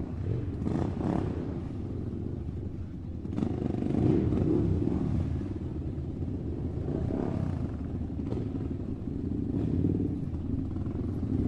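Motorcycle engine running while riding, a steady low hum that grows louder a little over three seconds in.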